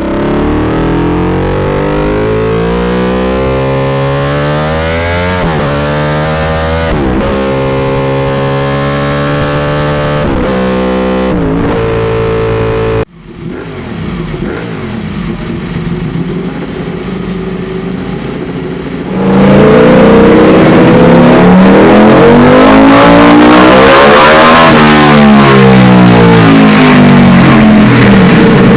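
Ducati Desmosedici RR V4 engine revving, its pitch rising and falling over and over. The sound cuts off abruptly about halfway through, comes back quieter, then turns much louder about two-thirds through, still sweeping up and down in pitch.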